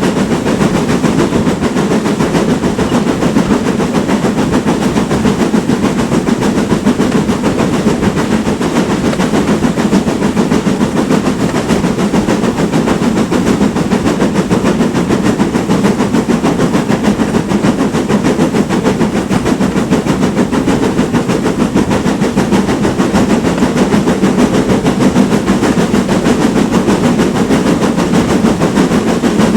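Moving steam train hauled by a GWR Manor class steam locomotive: a loud, steady, fast rhythmic clatter of the locomotive working and the wheels on the rails, unchanging throughout.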